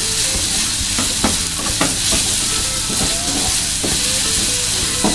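Ground spice paste with freshly added sliced red chillies sizzling as it is sautéed in a wok. A wooden spatula scrapes and knocks against the pan several times as it is stirred.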